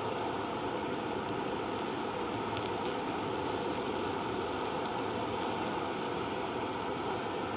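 An open fire burning, a steady rushing sound with faint scattered crackles.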